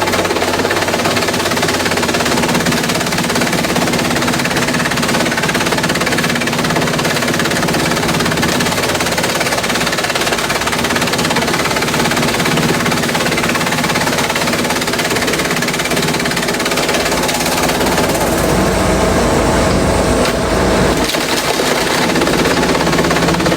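Industrial bamboo shredder running: loud, continuous mechanical noise over a steady machine hum. A deeper rumble swells about eighteen seconds in and drops away about three seconds later.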